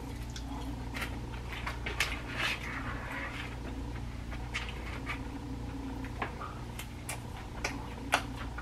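A person chewing a bite of fried potato wedge, with scattered wet mouth clicks and smacks, over a steady low hum.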